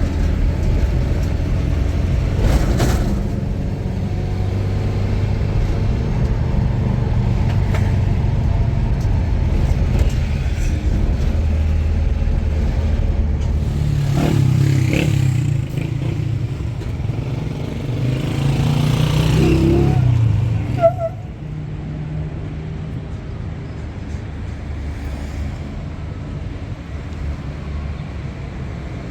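Motor vehicle running: a steady low rumble that eases off a little about two-thirds of the way through.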